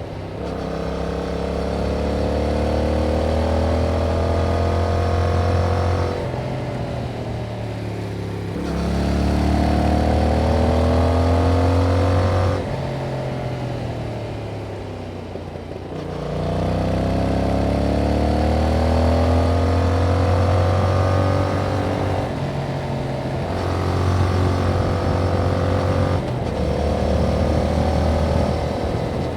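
Yamaha MT-07's parallel-twin engine through its stock exhaust, pulling hard with the pitch climbing for several seconds, then easing off as the throttle is rolled back, about four times over.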